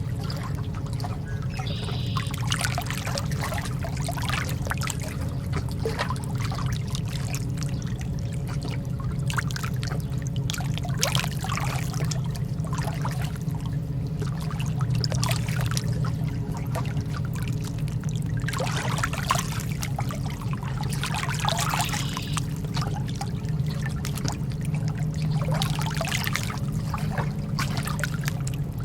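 Lake water sloshing and trickling in small irregular splashes over a steady low rumble.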